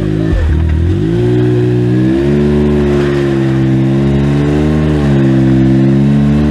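Can-Am X3 side-by-side's engine running at low throttle while the machine creeps into position. The pitch dips in the first second, rises about two seconds in, then holds with small rises and falls.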